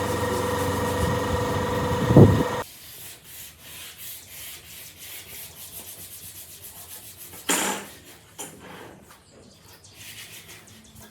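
A woodworking power tool's motor runs with a steady whine and stops abruptly about two and a half seconds in. Quieter rubbing and scraping on wood follows, with one louder scrape about seven and a half seconds in.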